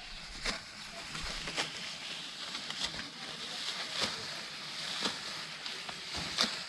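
Rice stalks being cut by hand with a sickle, a short crisp cut about once a second, over a steady outdoor hiss.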